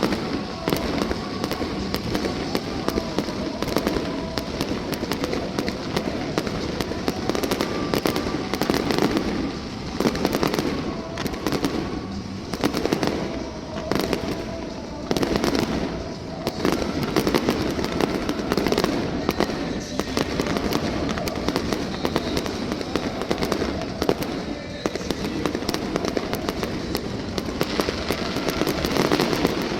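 Fireworks display going off in a continuous barrage of bangs and crackling, with no break.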